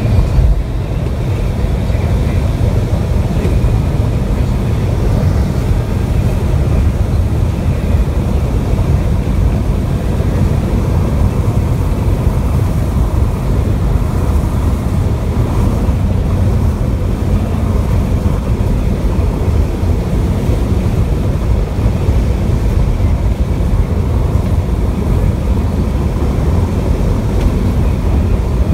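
Steady low rumble of a moving vehicle: road and wind noise, unbroken throughout.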